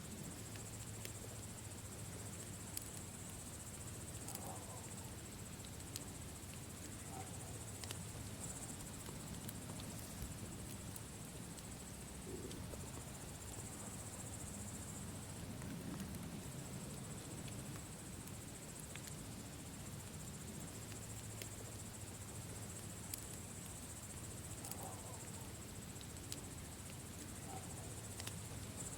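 Crickets chirping steadily under the sparse small pops and crackles of a campfire.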